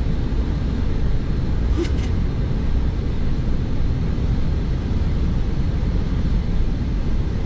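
Steady low drone of an aircraft's engine heard from inside the cockpit, with two brief clicks about two seconds in.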